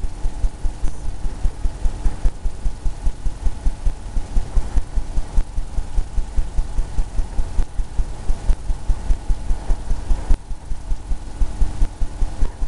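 Paintbrush working oil paint onto a canvas in quick repeated strokes, heard as a steady run of low thuds about three or four a second.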